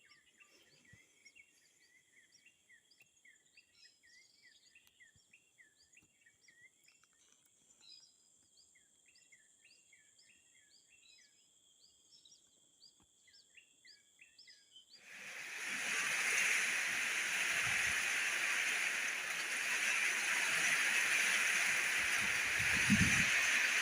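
Birds chirping in quick repeated calls over a steady high insect drone. About two-thirds of the way through, a loud, even hiss of heavy rain starts suddenly and keeps on.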